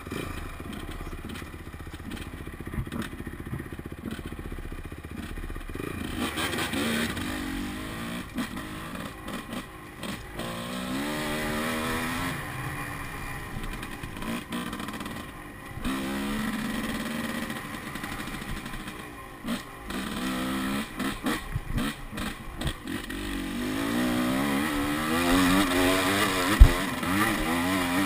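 Enduro dirt bike engine, low and steady for the first few seconds, then revving up and down repeatedly. A single sharp knock near the end.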